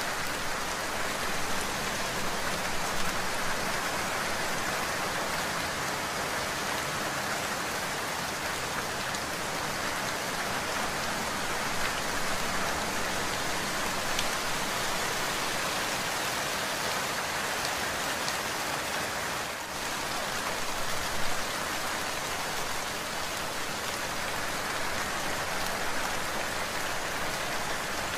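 Steady heavy rain falling, an even hiss of countless drops on hard surfaces.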